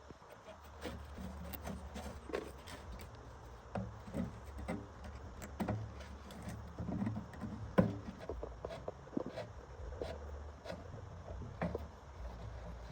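Irregular clicks and knocks of tools and parts being handled, with a sharper knock about eight seconds in, over a low steady hum.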